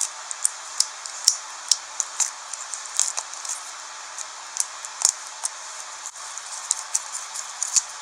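Slime being squeezed and stretched by hand, giving off a string of small irregular clicks and pops, about two or three a second.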